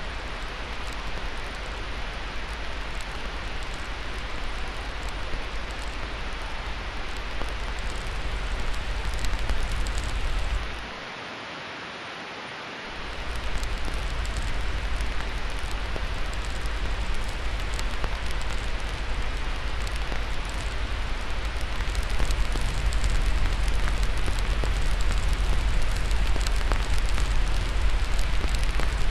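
Steady white-noise hiss with a deep rumble, layered with the fine crackle and pops of a wood fire. The rumble and level drop out for about two seconds near the middle, then return, a little louder later on.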